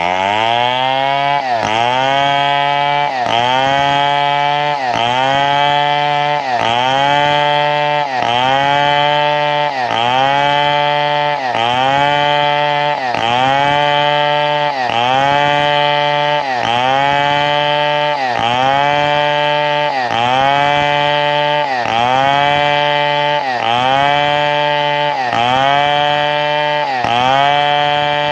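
Chainsaw engine running hard, its pitch dipping sharply and recovering in a very regular cycle about every second and a half to two seconds.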